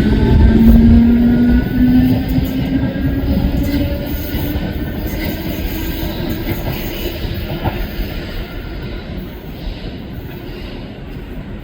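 A passenger train pulling away: its motor note rises steadily in pitch for the first few seconds as it gathers speed, over a rumble that gradually fades as the train draws off. There is a single sharp click a little under eight seconds in.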